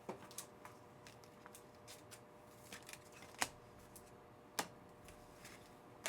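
Panini Certified football trading cards being handled and flipped through: faint sliding of card stock with a few sharp clicks, the loudest about three and a half seconds in and another about a second later.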